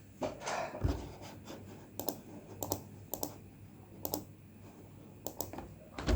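Laptop keyboard being typed on: scattered, unevenly spaced key clicks, with a soft knock in the first second.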